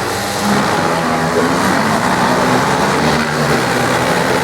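Engines of drag-racing machines revving on a dirt drag strip, the engine note stepping up and down in pitch.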